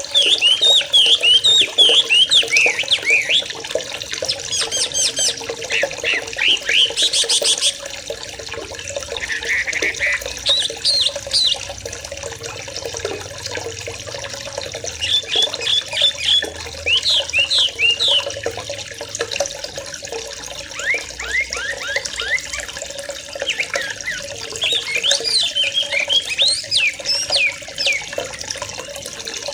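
A flock of young sooty-headed bulbuls chirping and chattering together in quick, overlapping calls, over a steady sound of running water. The calling is busiest at the start and again near the end.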